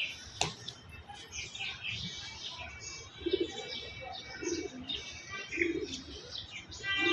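Small birds chirping, with a low cooing call repeating about once a second from near the middle, like a pigeon or dove.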